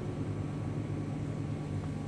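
Engine of a pile-drilling rig running steadily at a constant speed, a low even drone.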